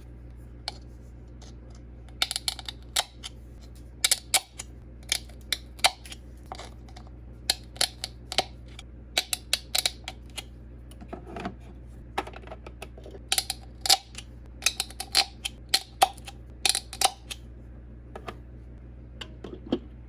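Eggs being handled for hard-boiling: sharp, irregular clicks and taps of eggshell against eggshell and hard surfaces, coming in quick clusters, over a steady low hum.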